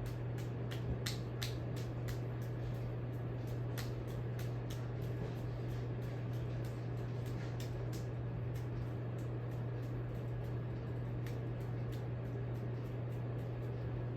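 A Hampton Bay Minuet II ceiling fan running steadily: a constant low motor hum with faint, irregular ticks.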